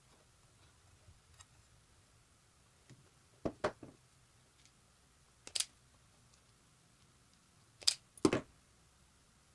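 A few sharp clicks and knocks against a quiet room: a pair about a third of the way in, a single one past the middle, and a louder pair near the end.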